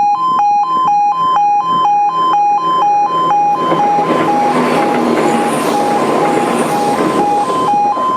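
Level crossing warning alarm sounding a rapid two-tone alternating beep while the barriers are down. A train passes over the crossing from about three and a half seconds in until shortly before the end, a rushing rumble over the alarm.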